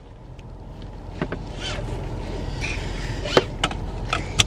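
Car cabin noise, road and engine, growing louder over the first couple of seconds as the car gets moving and then holding steady. Several sharp clicks land over it in the second half.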